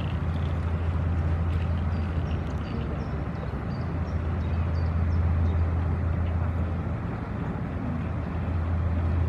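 Steady low drone of an inland cargo barge's diesel engine, over a constant rushing noise.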